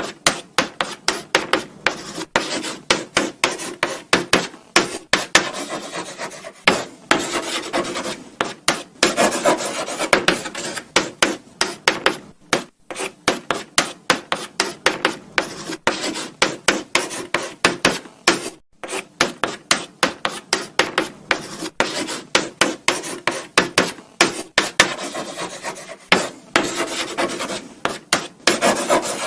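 Chalk writing on a blackboard: quick scratchy strokes, several a second, with short pauses between words.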